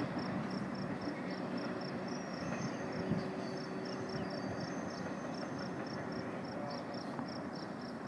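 An insect chirping steadily in short, even pulses, about four a second, over a steady low rumble.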